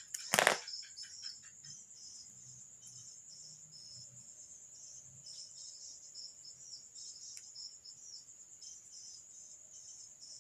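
Crickets chirping steadily in a high, pulsing trill, with one sharp click or knock about half a second in.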